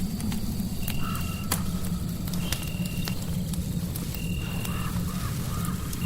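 Fireplace crackling, with scattered sharp pops over a steady low rumble of noise. A short, high, steady tone repeats about every second and a half, and faint wavering calls come and go around the first second and past the middle.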